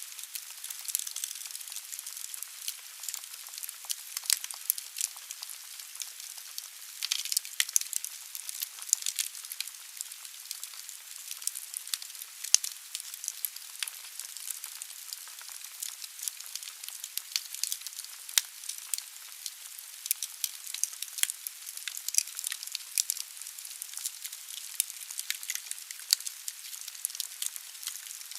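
Wood fire burning in a fireplace: logs crackling with frequent irregular sharp pops over a steady hiss of the flames.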